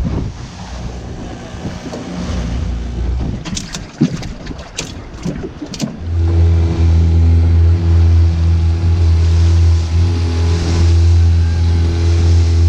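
An engine comes in abruptly about six seconds in and runs steadily at one low pitch. Before it there is wind-like rushing and a few sharp clicks.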